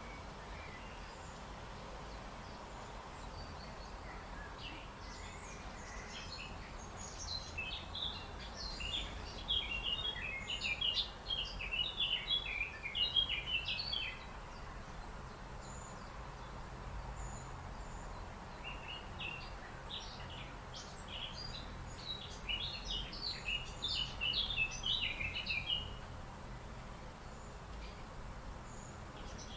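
Songbird singing: two long runs of quick high chirps, each lasting several seconds, the first starting about six seconds in and the second near the twenty-second mark, over a steady low hiss.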